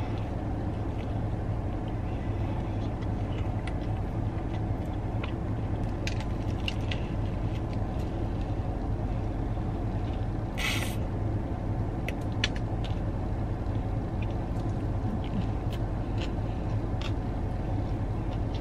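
A mouthful of sandwich being chewed, faint wet mouth clicks, over a steady low hum inside a parked car. A short hiss about ten seconds in.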